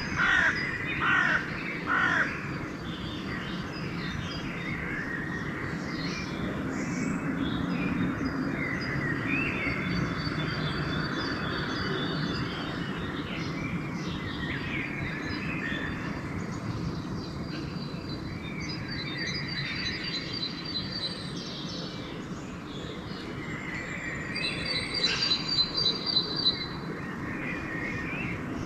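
Dawn chorus: a crow caws three times near the start, over many small songbirds chirping and trilling throughout, with a louder burst of trilling near the end. A steady low rumble of background noise runs underneath.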